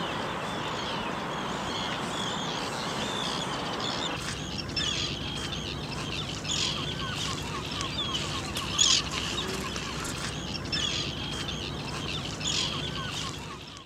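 A flock of birds calling over and over with short, high, curving calls, over a steady background noise that thins out about four seconds in.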